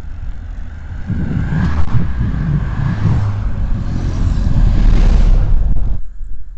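Wind buffeting the microphone during a bike ride, with a motor vehicle passing on the road, its noise swelling and then fading. The sound drops off suddenly near the end.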